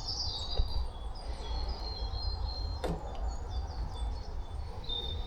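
Small birds chirping and tweeting, many short high calls overlapping, over a steady low rumble, with a single sharp click about three seconds in.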